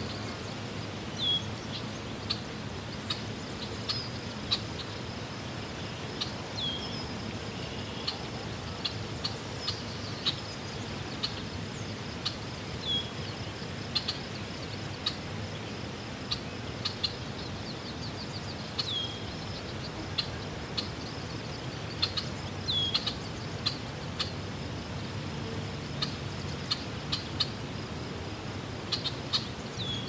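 Birds chirping: short calls that slide downward, repeating every second or two, with scattered sharp clicks. A steady thin high tone and a low even hiss run underneath.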